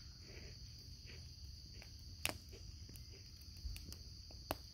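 Campfire crackling, with a few sharp pops, over a steady high chirring of insects.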